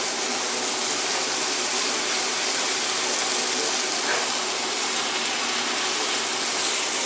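Chopped onion and tomato for an aderezo sizzling steadily as they fry in a small pan, stirred with a wooden spatula.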